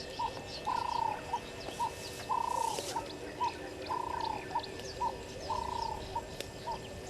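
A dove cooing a repeated three-note phrase, short–long–short, about every one and a half seconds, with small birds chirping faintly behind it.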